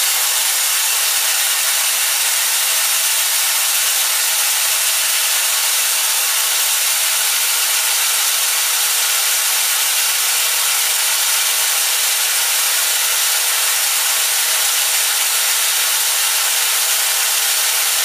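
Lionel 497 coaling station's electric lift motor running with a steady whir as it winds the coal tray up.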